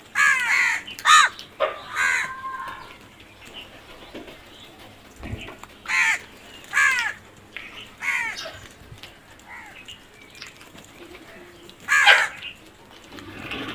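Crows cawing in short, harsh calls: a quick run of four or five caws at the start, then single caws spaced a second or two apart, and one loud caw near the end.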